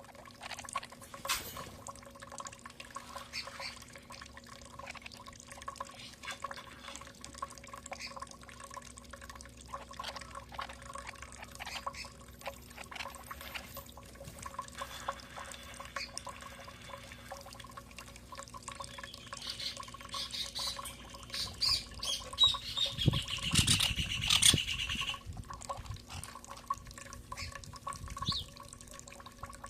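Birds pecking at food with many small irregular taps. A louder flurry of chirps and some fluttering thuds comes about twenty to twenty-five seconds in, over a faint steady hum.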